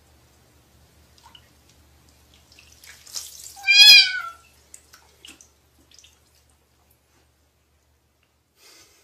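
A cat meows once, loudly, about four seconds in, the pitch rising and then falling. A short burst of hissing noise comes just before it, and a few faint knocks come around it.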